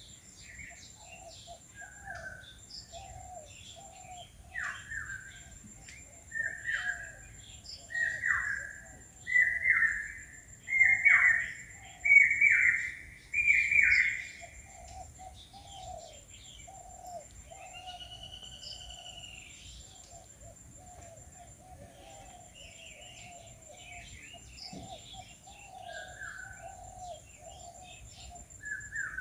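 A bird calling loudly in a rising series: about eight calls, each about a second long, climbing in pitch and growing louder, then stopping. Smaller birds chirp steadily underneath, over a faint steady high-pitched whine.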